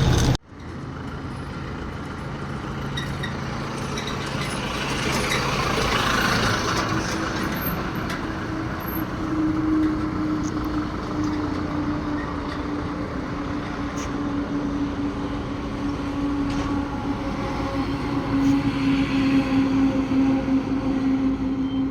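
A lorry running on the road: a steady engine hum with road and wind noise, the hum rising slightly in pitch over the first several seconds and then holding steady.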